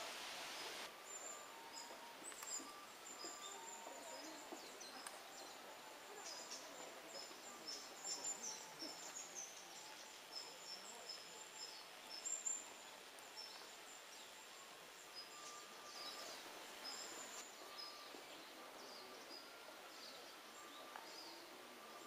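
Small birds calling in woodland, many short high chirps and a few lower notes, over a faint steady hiss. A louder steady rush cuts off about a second in.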